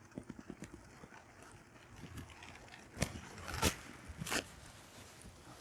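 Quiet room with a few faint ticks, then three sharp clicks or knocks in the middle, each about two-thirds of a second apart.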